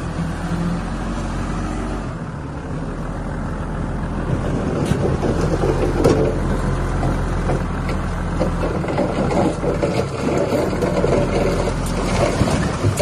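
Heavy diesel earthmoving machinery running steadily, with irregular clanks and crackle joining from about four seconds in.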